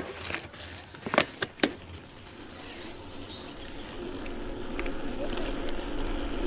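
A few sharp clicks and knocks as a bicycle gets under way, then the rumble of wind and tyres on the road building steadily as the bike picks up speed.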